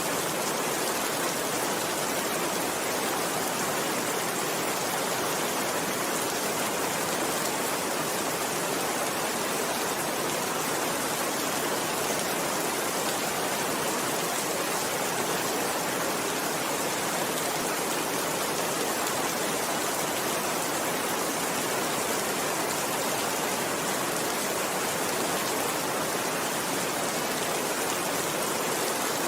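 Steady rain, a dense, even hiss of falling drops with no letup.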